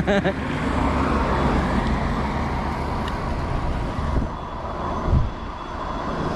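Steady wind and road noise on the move, with a low rumble that eases after about four seconds and a short thump about five seconds in.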